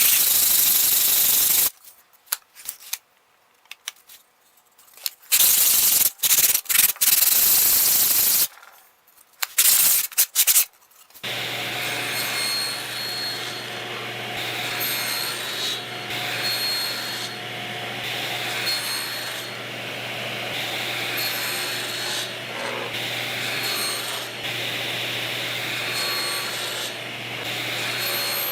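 Wood being sanded: loud, broken strokes of hiss for the first ten seconds or so, then a steady powered run with a low hum under the rasping hiss.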